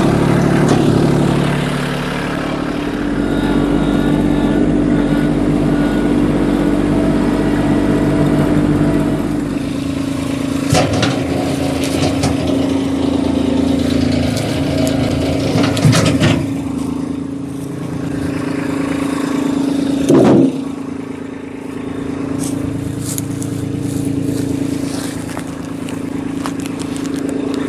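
Kubota LX2610 compact tractor's diesel engine running steadily, with a few loud knocks or clanks from the loader and attachment, about a third of the way in, past the middle, and about three quarters through.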